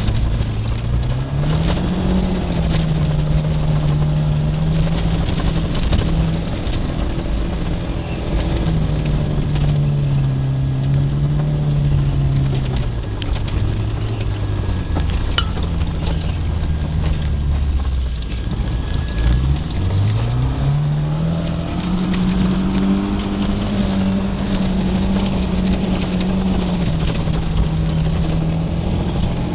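VAZ 2108's four-cylinder engine pulling hard at high revs. Its pitch climbs early and holds, falls away for a few seconds past the middle, then climbs again and holds high to the end.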